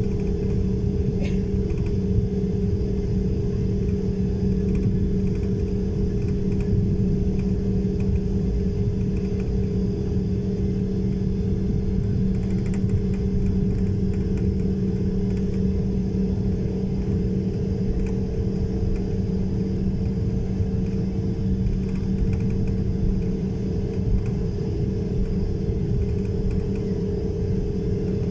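A running engine gives a steady low rumble with a constant droning hum that does not change in pitch or level.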